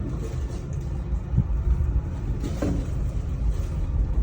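Steady low rumble inside an aerial tramway cabin travelling up its cable, with a couple of faint knocks partway through.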